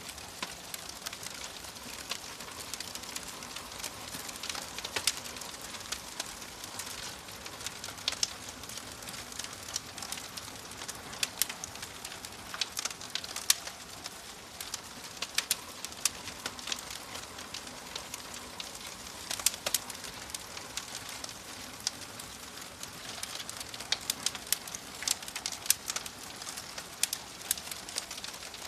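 Wood fire crackling in a fireplace: a steady hiss with irregular sharp pops and snaps, several a second, some much louder than the rest.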